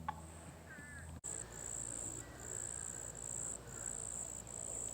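Insects calling in a high-pitched pulsing chorus, about two pulses a second, in woodland. It starts after an abrupt cut about a second in; before the cut there is a low steady hum and one short bird chirp.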